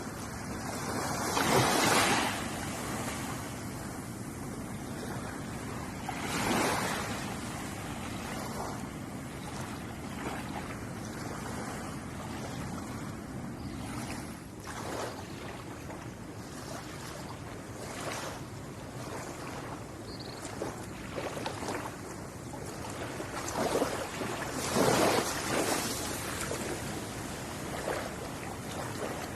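Ocean waves washing onto a shore in a steady hiss, with swells surging louder about 2 seconds in, again about 6 seconds in, and loudest near the end.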